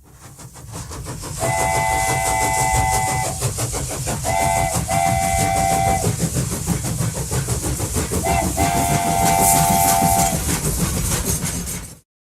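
Steam locomotive chuffing in a steady rhythm, fading in, while its whistle of several notes sounding together blows one long blast, then a short and a long, then another short and a long. Everything cuts off suddenly near the end.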